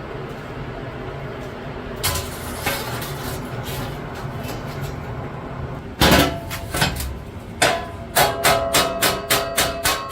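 Hammer blows on steel at the anvil, each strike ringing, over a steady background roar: a few separate heavy blows, then from about two seconds before the end a quick regular run of about four strikes a second.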